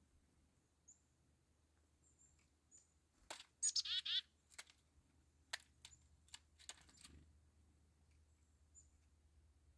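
Black-capped chickadee giving a short burst of harsh, buzzy call notes about a third of the way in, followed by a scatter of sharp clicks and taps over the next few seconds, with faint high chirps here and there.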